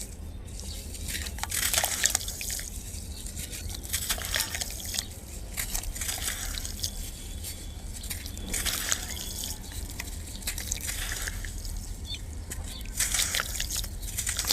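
Clumps of dry black sand crumbling and dropping into water, crackly splashes coming in bursts every couple of seconds over a low steady hum.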